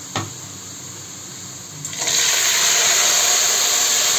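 A light knock, then about two seconds in a loud, steady sizzle starts as sliced tomatoes drop into hot oil and browned onions in an aluminium pot, throwing up steam.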